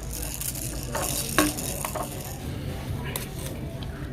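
Scattered light clicks and clatter of things being handled, several sharp ticks spread over a few seconds, over a steady low hum.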